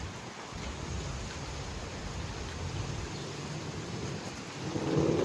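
Heavy thunderstorm rain and strong gusting wind, a steady rushing noise with a low rumble underneath, growing louder near the end.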